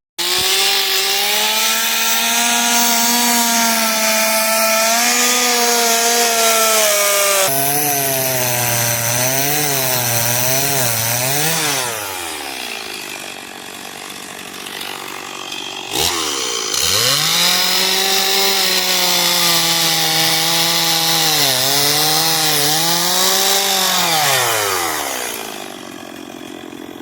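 Two-stroke chainsaw running at full throttle and cutting into a large wooden log, its pitch dipping and wavering as the chain bites under load. It eases off about twelve seconds in, revs back up and cuts again about sixteen seconds in, then drops back near the end.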